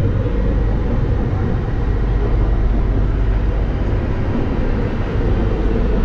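Metro train running underground: a steady, loud rumble and rail noise with no pauses.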